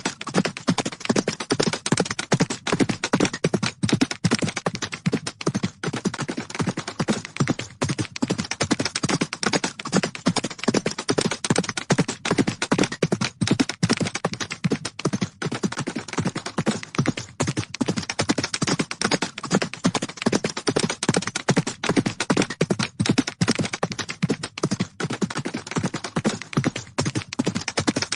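Horses galloping: a dense, unbroken drumming of hoofbeats, many strikes a second overlapping with no pause.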